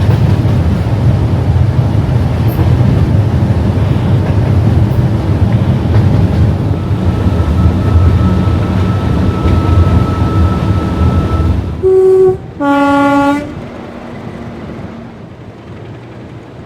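English Electric 12CSVT V12 diesel engine of a Class 37 locomotive working hard under power. About twelve seconds in, the two-tone horn sounds: a short high note, then a longer low note. After the horn the engine noise falls away to a much quieter level.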